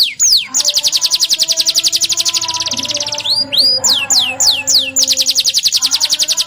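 Domestic canary singing: a run of quick, high, down-sweeping whistled notes, then a long, rapid rolling trill lasting about two and a half seconds, more sweeping notes, and a second rolling trill near the end.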